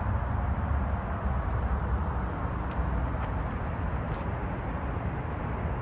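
Engine running at a steady idle, a constant low rumble with no revving, with a few faint ticks over it.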